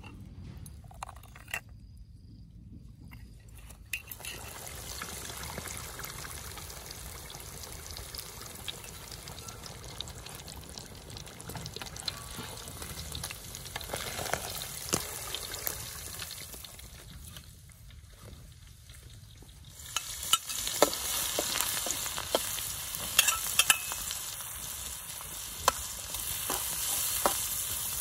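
Hot oil frying, starting a few seconds in: a whole scored fish deep-frying in a wok and being turned with metal tongs and a spatula. About 20 seconds in it gives way to a louder, brighter sizzle of minced garlic and chili stir-fried in a little oil, with the metal ladle clicking and scraping against the wok.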